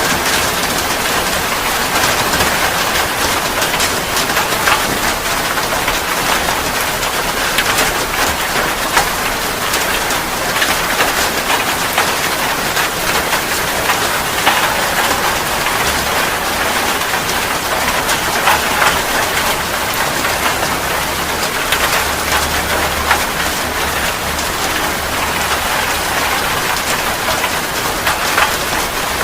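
Steady rain falling on a surface, a dense continuous patter of many individual drops.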